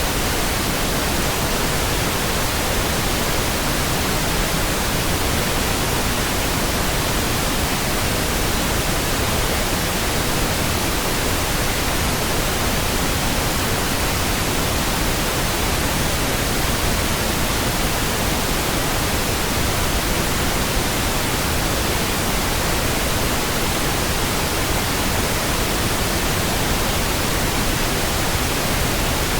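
Steady pink noise: an even, unchanging hiss spread across the whole range, fuller in the low end than white noise.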